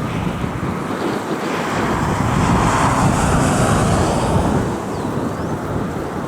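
Boeing 737 MAX jet with CFM LEAP-1B engines passing, a broad rushing jet noise that swells to its loudest about three seconds in and then eases, with wind buffeting the microphone.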